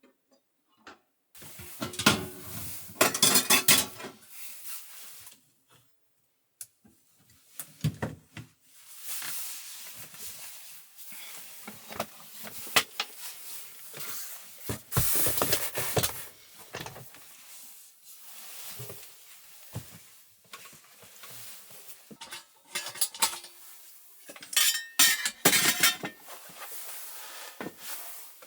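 Dishes and cutlery being handled: repeated clinks, clatters and knocks of tableware, in several busy clusters.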